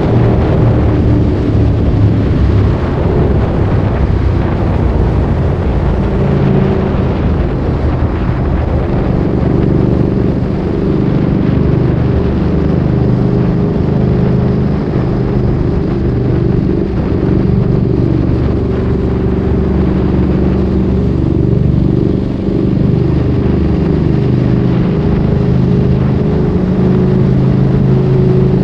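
Ducati Streetfighter 848's L-twin engine through a Termignoni exhaust, heard while riding. The engine note rises and falls over and over as the throttle opens and closes and the bike changes gear.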